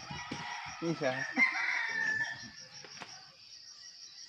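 A rooster crowing once, starting about a second in and ending on a long held, slightly falling note.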